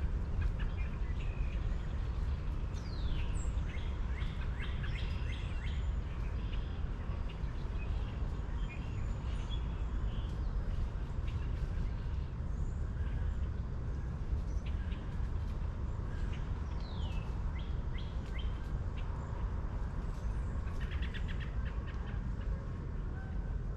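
Wild birds chirping and calling, including a couple of falling whistles and a quick trill near the end, over a steady low rumble.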